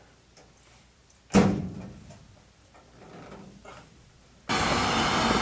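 Light scattered knocks and clicks, with one loud sharp knock a little over a second in. Near the end a loud steady rushing noise starts abruptly.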